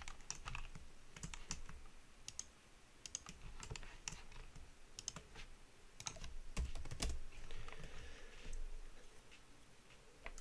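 Computer keyboard and mouse clicks, irregular, several short bursts of keystrokes.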